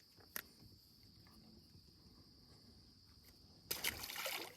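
Steady high-pitched chirring of insects, with a single sharp click about a third of a second in and a brief loud rushing noise near the end.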